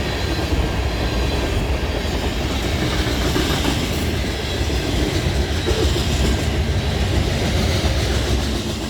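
Train rolling past with a steady rumble and wheel-on-rail noise.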